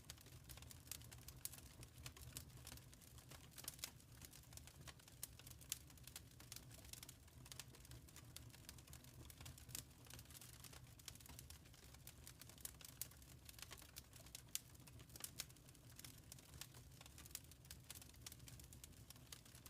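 Wood fire crackling softly: many small irregular pops and snaps over a low steady rumble.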